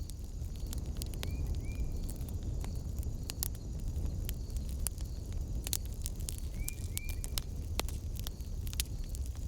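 Wood fire burning in a fireplace: a steady low rumble of the flames with frequent sharp crackles and pops. Short paired chirps come twice, just after a second in and about seven seconds in.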